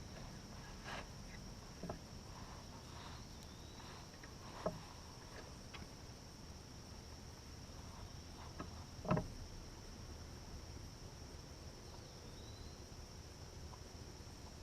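Steady high-pitched insect chorus, crickets trilling without a break. A few short knocks cut through it, the loudest about nine seconds in.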